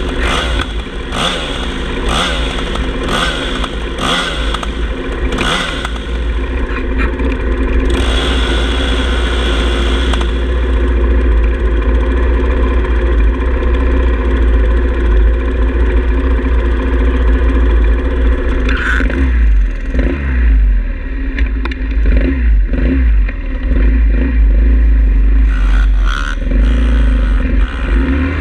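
Pit bike's small single-cylinder engine running under way, with a deep constant rumble underneath. A run of evenly spaced sharp clattering ticks sounds over the first several seconds.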